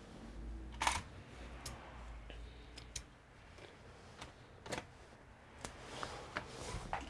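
Scattered light clicks and taps from hands working on a computer, about seven irregular strikes, the loudest a little under a second in, over a low background rumble.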